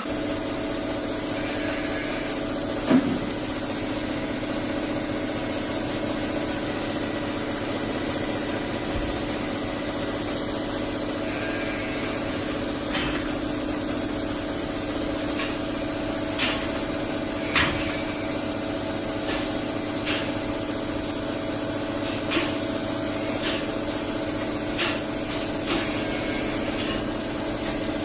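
A motor or engine running steadily with an unchanging hum. About ten sharp clicks and knocks are scattered through it, the loudest about three seconds in.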